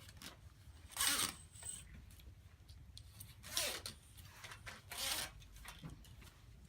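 Zipper on a stretched fabric display graphic being pulled shut in three short pulls, each a brief rasp.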